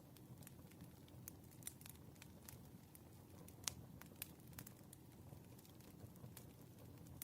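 Faint campfire ambience: a low steady rumble with irregular sharp crackles and pops, one louder pop a little past the middle.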